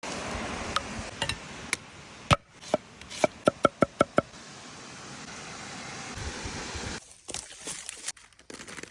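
A series of sharp knocks that ring at the same pitch each time, some spaced out and then a quick run of about five a second, over a steady hiss that stops about seven seconds in.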